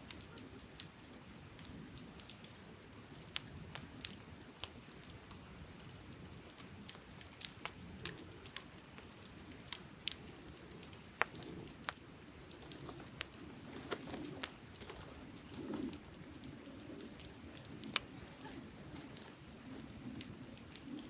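Wood campfire crackling, with irregular sharp pops and snaps, a few of them louder, over a low steady rush.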